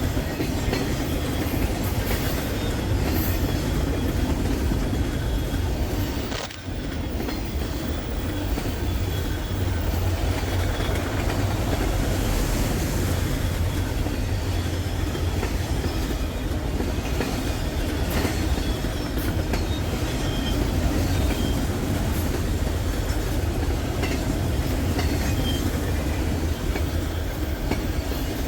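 Freight train rolling past: a steady rumble of rail cars, with faint clicks of the wheels over the rail joints and a brief dip about six and a half seconds in.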